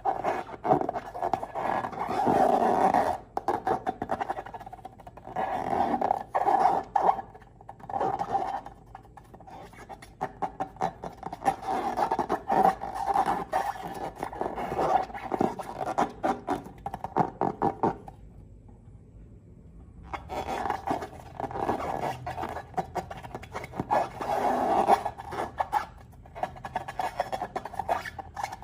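Slime being squeezed and worked by hand: dense wet crackling and popping clicks in uneven bursts, with squeaky tones, stopping briefly about two-thirds of the way through.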